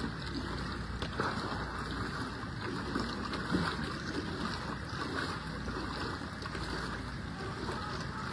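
Steady wash of moving floodwater, an even rushing noise with no clear rhythm.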